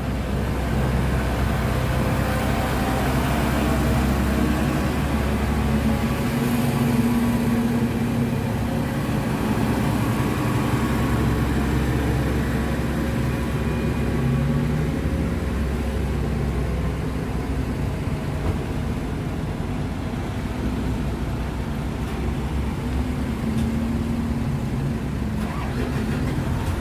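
Truck engines running in slow, backed-up road traffic: a continuous deep engine hum that swells and eases.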